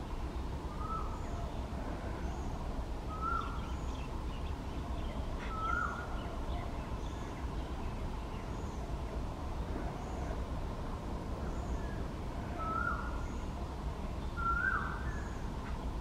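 A bird calling: a short, rising call repeated five times, about two to three seconds apart, with a pause in the middle. Under it is a steady low rumble.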